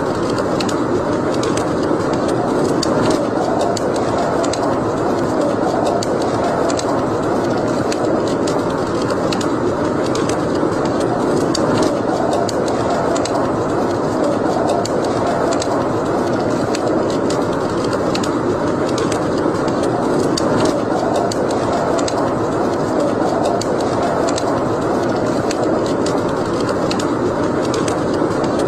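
Wood fire burning in a fireplace: a steady rushing roar of flames with frequent sharp, irregular crackles and pops.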